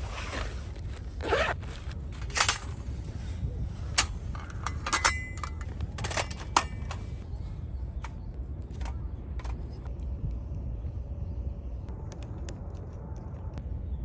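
Scrapes and sharp clicks from handling campfire cooking gear, mostly in the first half, over a steady low rumble.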